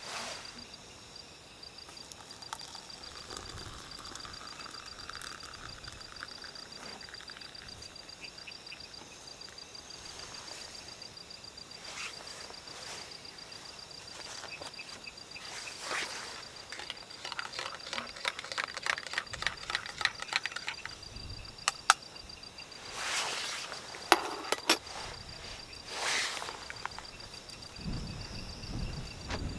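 An insect, cricket-like, trilling steadily in a high, finely pulsed tone, with intermittent rustling and a few sharp clicks, louder in the second half.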